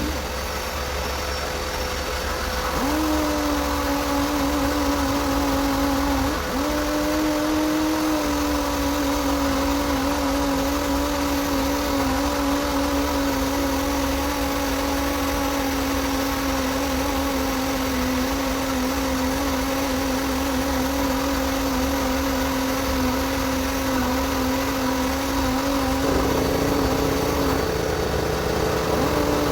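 A motor running at a constant speed with a steady hum; it spins up about three seconds in, cuts out and spins up again around six seconds, and stops briefly near the end.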